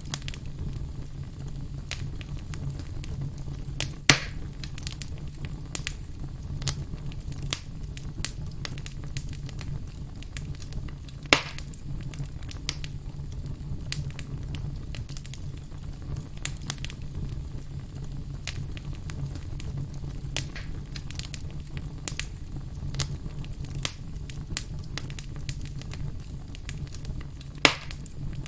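Burning firewood crackling with many small snaps over a steady low rumble. Three louder pops stand out: about four seconds in, around eleven seconds, and near the end.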